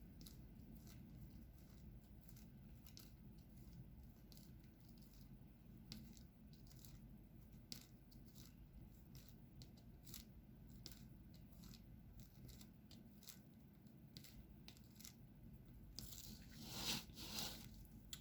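Faint, irregular light clicks and taps of a diamond painting pen picking up small resin drills and pressing them onto the sticky canvas, with a louder rustle near the end.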